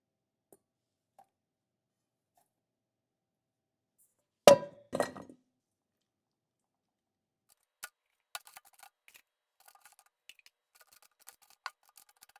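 Kitchenware knocking and clinking during cooking prep: two sharp knocks about four and a half seconds in, then a run of light clinks and taps, like utensils against dishes, through the last few seconds.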